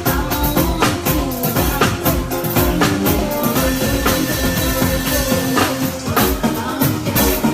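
Live band playing during a sound check: drum kit, bass and keyboard or guitar lines at a steady tempo.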